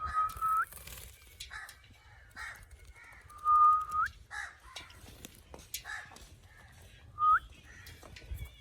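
Parrot whistling three times, each a held note that sweeps sharply up at its end, between short harsh calls.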